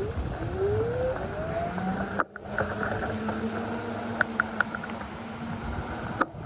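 A vehicle engine rising in pitch as it speeds up, then running at a steady pitch, with wind noise on the microphone. The sound drops out briefly twice.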